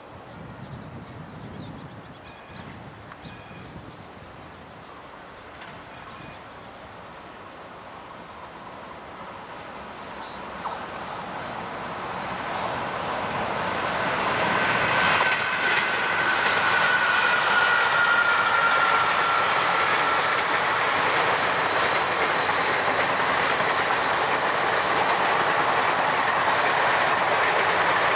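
A 24-coach electric-hauled Indian express train approaching and running past at speed. Its wheel-on-rail noise swells from about a third of the way in and becomes a loud, steady roll with the clickety-clack of the coaches. A faint falling whine comes as the roll reaches full loudness.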